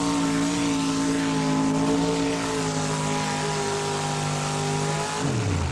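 Four-wheel-drive pulling truck's engine running flat out at high, steady revs under load while pulling the sled. The revs sag slightly, then fall away sharply about five seconds in as the pull ends.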